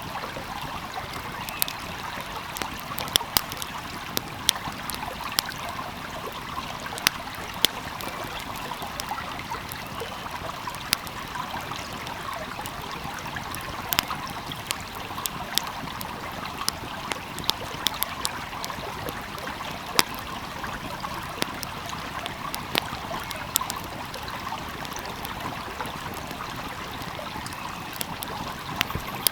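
Wood fire crackling, with irregular sharp pops and snaps, over the steady babble of a flowing stream.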